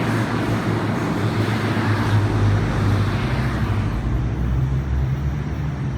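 A passing diesel train: a steady low engine hum under a rushing rumble, the higher rushing noise dying away about four seconds in.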